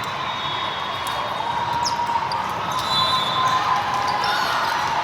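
Volleyball match in a large echoing sports hall: ball contacts and bounces on the court amid steady crowd chatter, with a few short high squeaks.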